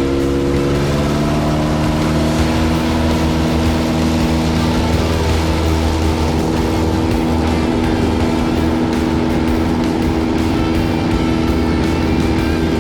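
Carbon Cub light aircraft's piston engine and propeller droning steadily. The pitch falls during the first second or two as the power comes back, then holds.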